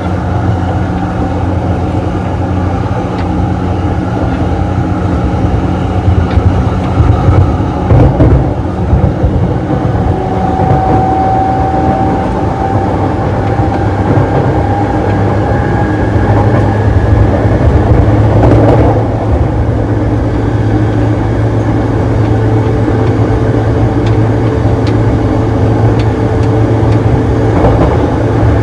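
JR East E233-series electric train running, heard from inside the gangway between two cars: a steady loud rumble of wheels on rails and car body, with jolts and thumps several seconds in and again later. Faint whines from the motor car's traction motors come and go over the rumble.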